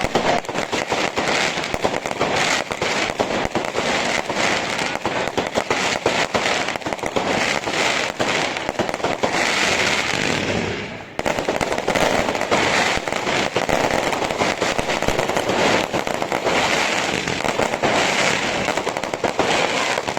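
Professional fireworks display: a dense, continuous barrage of shell launches and bursts with crackling. The barrage briefly drops away about eleven seconds in, then resumes at full density.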